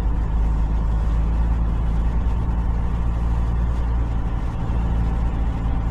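Semi truck's diesel engine running steadily at low speed as the tractor-trailer manoeuvres to park.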